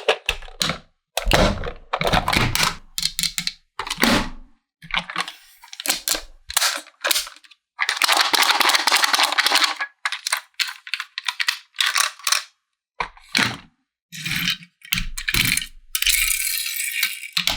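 Hard plastic toy pieces clattering and rattling as they are handled, in a quick series of short bursts with abrupt silent gaps between them, and a longer spell of rattling about eight seconds in.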